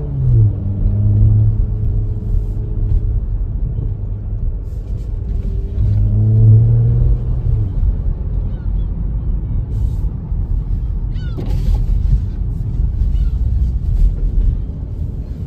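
Porsche Macan GTS's twin-turbo V6 and road rumble heard from inside the cabin while driving. The engine note swells up and falls back at the very start and again about six to eight seconds in. A brief sharp noise comes about two-thirds through.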